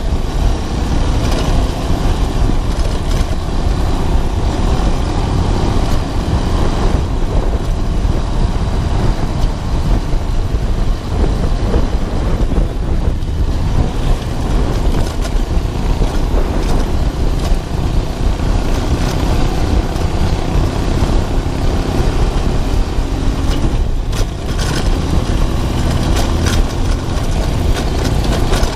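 Romet ADV 150 motorcycle engine running steadily while riding, with heavy wind rumble on the microphone.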